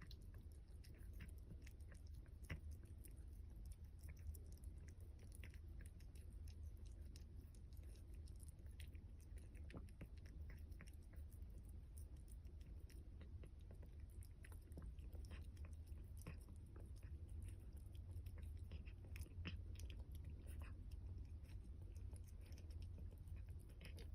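Cats eating: faint, irregular small clicks of chewing and crunching food, over a low steady hum.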